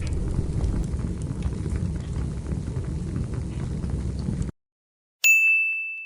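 Wood campfire crackling, with many small pops and snaps over a low rumble of the burning fire, that cuts off suddenly about four and a half seconds in. After a short silence, a single bright ding rings out and slowly fades.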